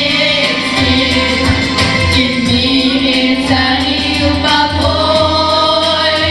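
Vocal group singing long held notes together over an instrumental backing with a steady beat.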